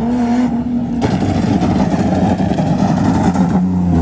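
Car engine held at steady revs, then about a second in breaking into a loud, rough, sustained rev, and settling back to a lower, steadier note near the end.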